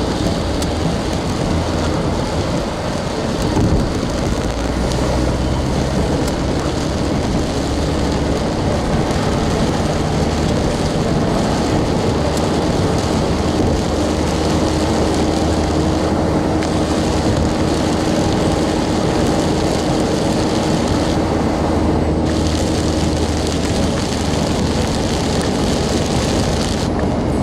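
Car running on wet roads in the rain: a steady engine hum under continuous road and rain noise.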